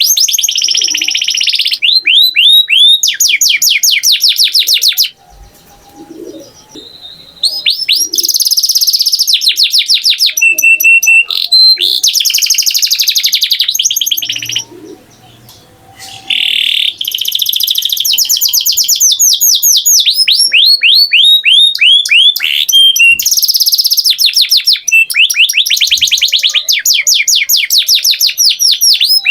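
Canary singing loud, fast trills of rapidly repeated sweeping notes, in long phrases broken by two short pauses.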